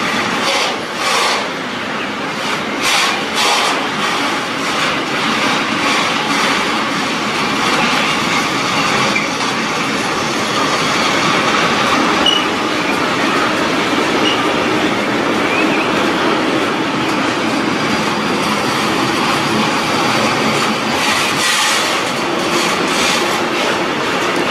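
Freight train wagons rolling past, container flats and then gas tank wagons: a steady rush of steel wheels on rail, with clacks over rail joints in the first few seconds and again near the end.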